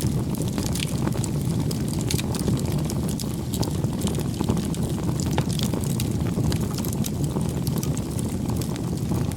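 Wood bonfire burning: a steady low rumble of flame with frequent sharp, irregular crackles and pops.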